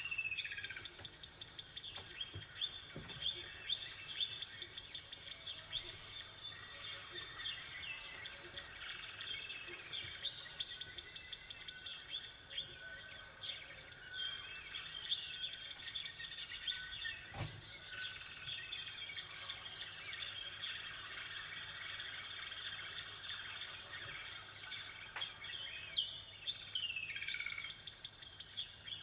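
Songbirds chirping and singing. One bird repeats a fast, high trill about every five seconds, over a scatter of other calls.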